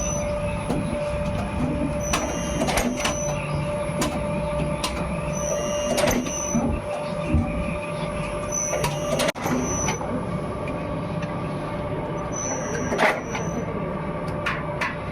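Soap-factory machinery running with a steady hum, and every two to four seconds a sharp click with a short hiss.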